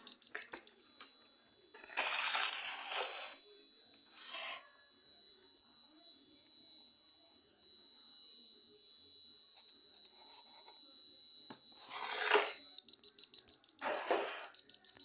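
Piezo buzzer of an ultrasonic obstacle-sensor setup sounding one steady high-pitched tone, which breaks into rapid, evenly spaced beeping about 13 seconds in; the buzzer is the alarm that the sensors have detected something nearby. A few short bursts of noise sound over it.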